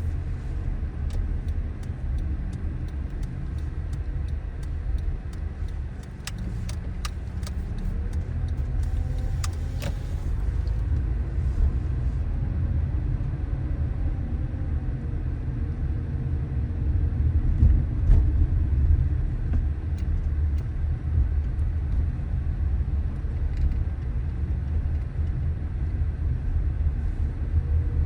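A car driving along city streets: a steady low rumble of road and engine noise, with a few sharp clicks about a third of the way in.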